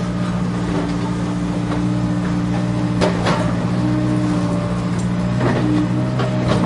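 Steady engine-like drone of a toy construction vehicle, with a few sharp clicks and rattles about halfway through and again later.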